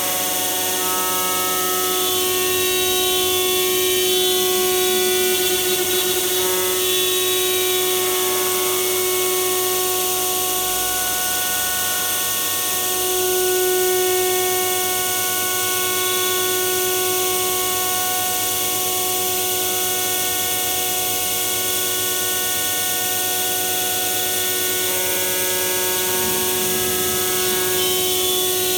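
5-axis CNC machining centre running, its high-speed spindle giving a steady whine of several held tones over a constant hiss as it machines a plastic moulding.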